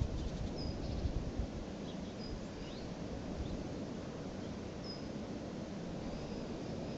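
A continuous low rumble, like a plane going past that never passes, mixed with gusting wind buffeting the phone's microphone. Small birds chirp briefly a few times.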